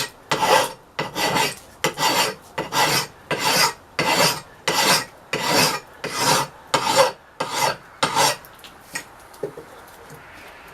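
Hand file or rasp stroking back and forth across the steel of an old axe head, about two strokes a second, to cut away rust and pitting. The strokes stop about eight seconds in.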